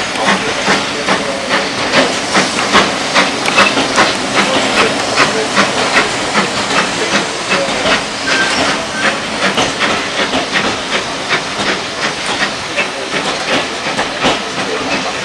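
Steam locomotive running, with a steady hiss of steam and a fast, regular beat of exhaust chuffs, about three a second, that grows less distinct after about ten seconds.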